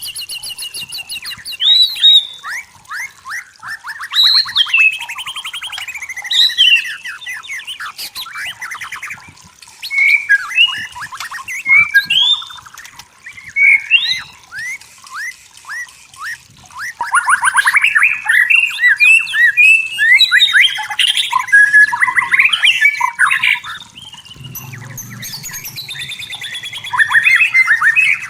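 White-rumped shama singing continuously: a long, varied run of clear whistles, fast trilled phrases and harsh chattering notes, with short pauses between phrases.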